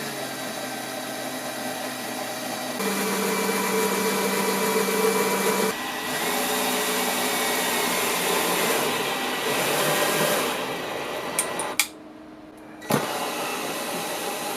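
Electric drill working into a thin pine strip, the motor whirring at a steady pitch that shifts up and down as the trigger is worked, louder from about three to six seconds in. It stops briefly with a couple of clicks near the end, then runs again.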